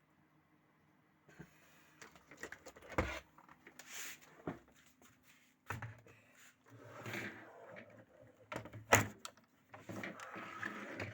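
Clicks, knocks and scrapes of the Xiaomi robot vacuum's plastic housing being handled, several sharp snaps among them, with a low hum coming and going in the second half.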